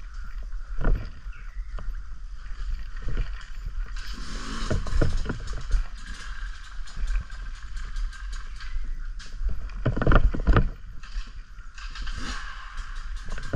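Off-road motorbike riding along a muddy trail, heard from a bike-mounted camera: wind rumble on the microphone, steady tyre and mud noise, and repeated knocks and splats from bumps, the loudest cluster about ten seconds in.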